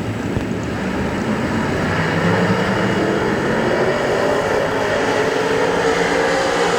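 A field of semi late model dirt race cars with engines running hard on a restart, getting louder and rising in pitch about two seconds in as the pack accelerates.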